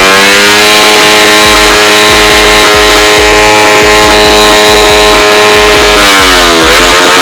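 Modified Honda Wave 110i drag motorcycle engine with a split open exhaust, run hard at high revs. The pitch climbs in the first second and holds high for about five seconds, then dips and climbs again twice near the end as it shifts gear.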